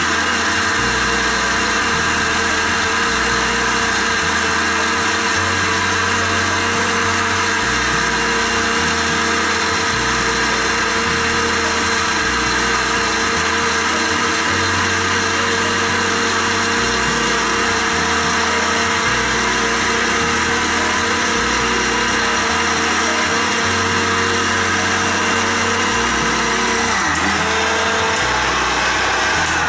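Butterfly electric mixer grinder running steadily at high speed, its motor whining as the blade grinds masala in the jar into a fine paste.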